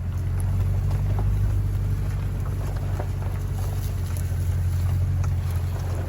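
Steady low drone of a vehicle under way, engine and road noise.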